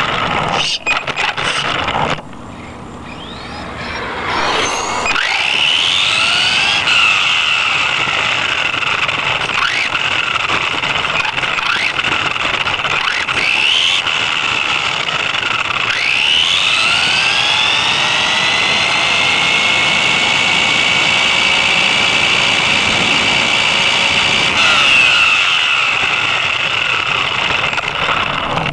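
A 1/10-scale electric RC car's motor and gears whining, heard from on board. The whine rises in pitch as the car accelerates and falls as it slows, several times over, after a rattling clatter in the first two seconds.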